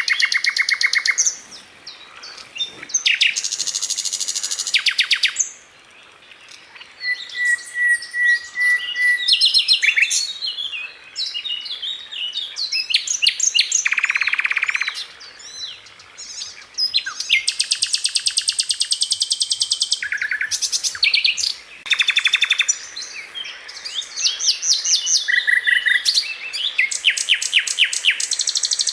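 Sikatan londo (a flycatcher) singing in fast, tightly packed trills. Bursts of one to two seconds of rapidly repeated high notes follow one another with short pauses between.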